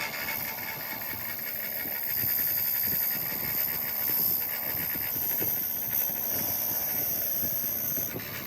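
Steady, loud hiss of a compressed-air shop tool running continuously.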